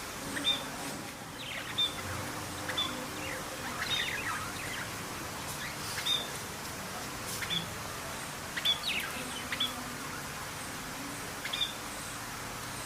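Small birds chirping: short, high chirps, some with quick falling sweeps, about every second, over a steady hiss.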